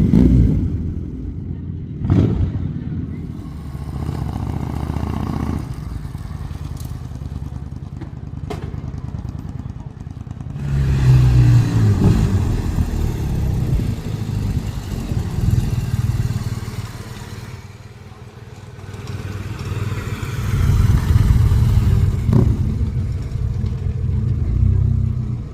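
Several motorcycle engines running as bikes ride in and pull up, with deep low exhaust sound that swells twice, first about halfway through and again near the end.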